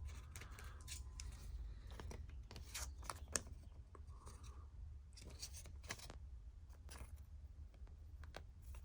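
Faint rustling and small scattered clicks of a trading card being slid into a plastic card sleeve and handled.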